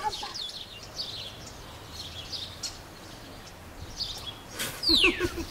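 Outdoor birdsong: small birds chirping, with one loud call sliding down in pitch near the end.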